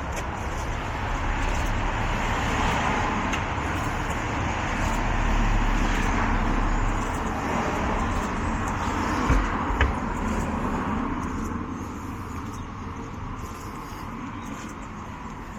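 A motor vehicle driving past close by, its engine and tyre noise swelling and then fading away. Two short knocks sound about nine and ten seconds in.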